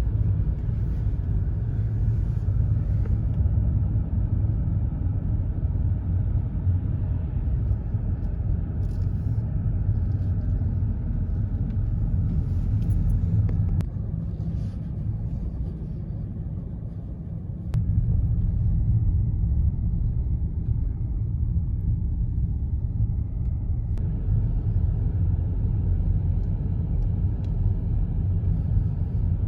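Car driving, with a steady low rumble of road and engine noise; it eases off for a few seconds about halfway through, then comes back.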